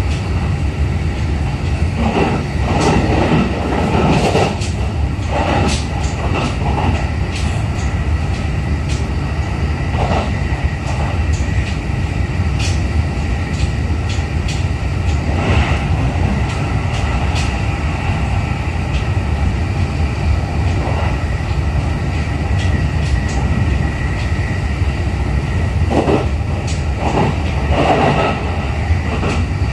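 JR East E531 series electric commuter train running, heard from inside the passenger car: a steady rumble of wheels on rail with a thin held tone, and scattered clicks and knocks, bunched a couple of seconds in and again near the end.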